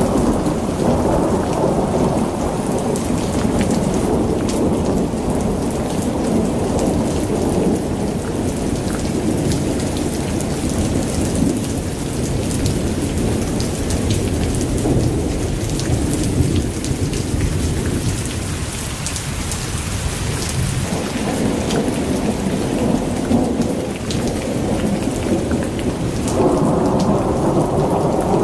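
Heavy rain falling, with many small sharp drop hits over a continuous low rumble, as in a thunderstorm.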